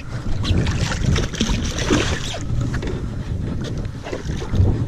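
Wind buffeting the microphone aboard a small fishing boat, a choppy low rumble with scattered knocks and clatter.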